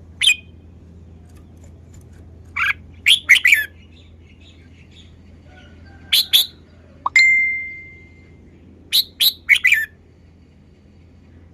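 Red-whiskered bulbul singing short, quick chirping phrases in four separate bursts with pauses between them. Partway through, a steady ringing tone sounds and fades over about a second.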